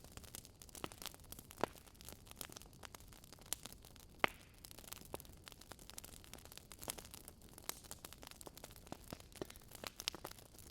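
Fire burning in a fireplace, crackling with irregular small snaps, and two louder pops about one and a half and four seconds in.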